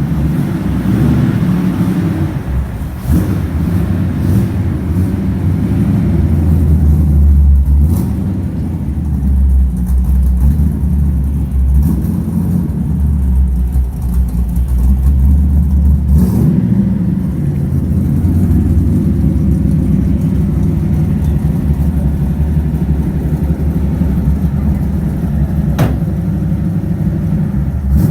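Freshly rebuilt Ford 302 (5.0 L) V8 in a Ford F100 pickup running under way, its low rumble rising and falling with the throttle. Three brief sharp clicks or knocks come through at intervals.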